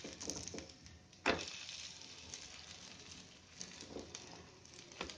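Potato-and-paneer patties shallow-frying on a low flame in a little oil in a nonstick pan, a faint steady sizzle. A silicone spatula turns them, with one sharp knock about a second in as a turned patty lands in the pan, and a few light ticks later.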